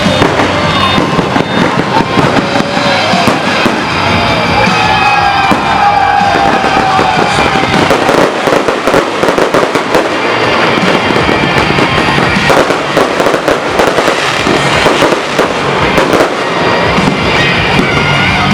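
Dense, continuous crackling of a fireworks and firecracker display, loud and rapid, with music playing over it. A wavering melody stands out in the first several seconds.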